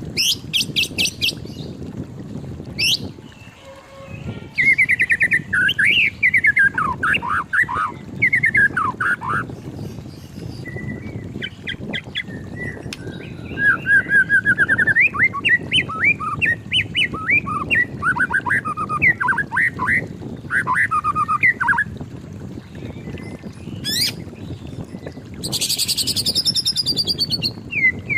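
White-rumped shama singing a long, varied song of loud whistled phrases that swoop up and down, broken by short pauses, with quick high chattering trills near the start and again near the end and a fast rising whistle shortly before the last trill.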